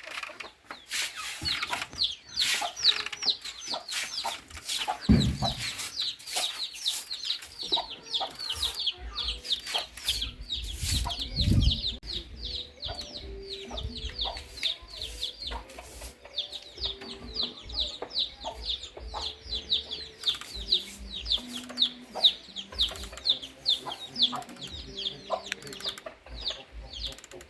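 Chickens calling: a steady run of short, high peeps, about three a second, with softer clucks underneath and scattered light clicks.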